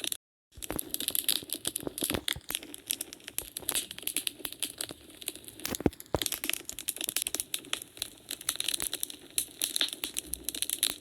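Wood fire crackling in a fireplace: a dense, irregular run of sharp pops and snaps over a low hiss, with one louder pop about six seconds in. The sound cuts out completely for a fraction of a second right at the start.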